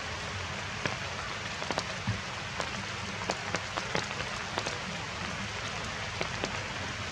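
Heavy rain falling steadily, a constant hiss with frequent sharp drop impacts scattered through it.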